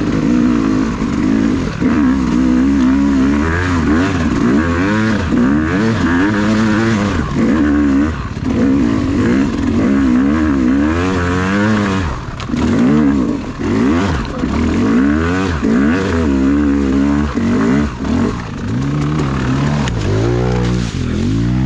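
Dirt bike engine revving up and down over and over as the throttle is worked, the pitch rising and falling every second or so.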